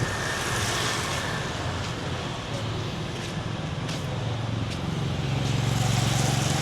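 Road traffic passing, with a vehicle engine's low hum growing louder near the end.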